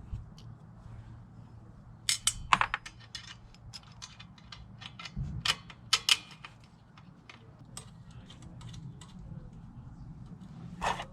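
Scattered clicks and light metallic clinks of small parts and tools being handled, with a faint steady low hum underneath.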